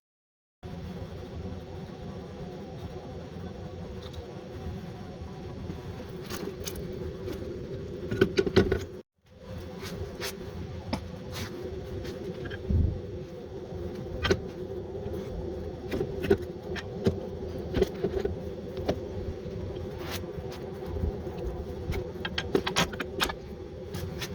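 Metallic clinks and taps of hand tools against car suspension parts, scattered irregularly over a steady hum; the sound cuts out briefly twice.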